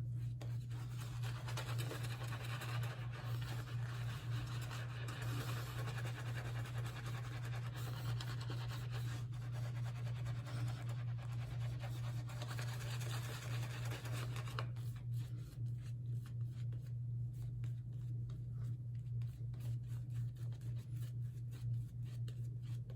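Synthetic shaving brush swished and scrubbed through thick shaving-cream lather, a brisk scratchy rubbing that stops abruptly about two thirds of the way through, followed by faint light handling noises. A steady low hum runs underneath.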